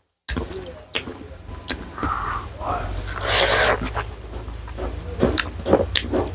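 Close-miked eating sounds: chewing and wet mouth noises with sharp clicks and a few louder noisy bursts, starting abruptly about a third of a second in, over a steady low hum.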